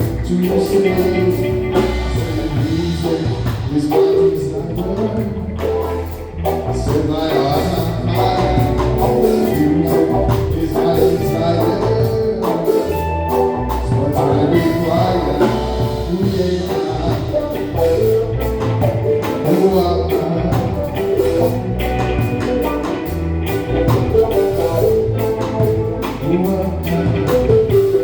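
Live band music with a steady beat, with singing in places and tambourine.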